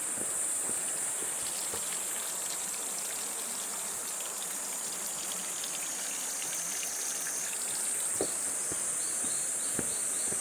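A steady, high-pitched insect chorus over the even hiss of flowing water, with a few faint footsteps near the end.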